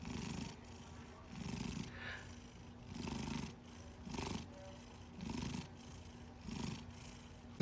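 A domestic cat purring in slow, even pulses, one low rumble with each breath, about one pulse a second.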